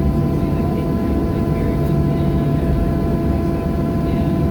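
Steady cabin noise inside a Boeing 737-700 on the ground: a continuous low rumble with a few steady whining tones running underneath.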